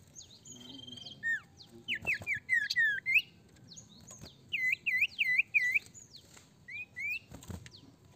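Common iora (sirtu) singing in lively bursts: a quick run of whistled chirps, then four looping whistles in a row, then two short rising notes. Two brief knocks are also heard.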